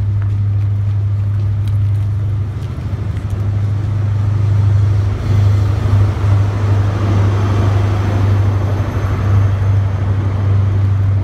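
Diesel passenger train pulling out along the platform. Its engines give a steady low drone, and the rush of wheels and air swells through the middle as the carriages and the rear power car go by.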